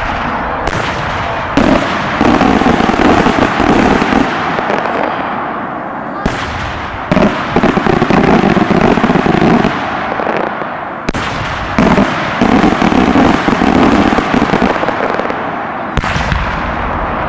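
Large multi-break aerial firework shells bursting overhead: sharp reports come in pairs about every five seconds. Each pair is followed by several seconds of dense crackling as the breaks go off.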